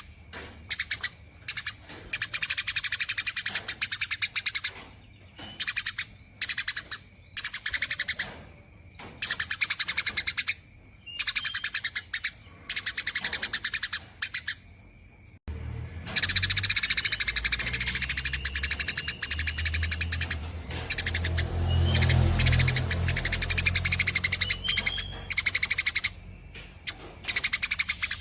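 Eurasian tree sparrow chattering in long, rapid runs of chirps, the drawn-out 'nyerecet' song. In the first half the runs come in bursts of about a second with short pauses. About halfway through it becomes a nearly continuous chatter over a low rumble.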